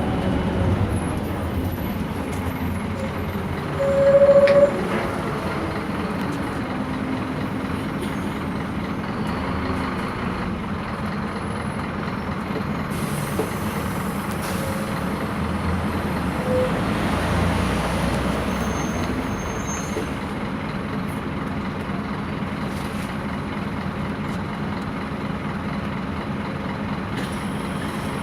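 Scania K230 bus's five-cylinder diesel engine running as the bus drives, its note falling and rising several times. About four seconds in there is a brief loud tone.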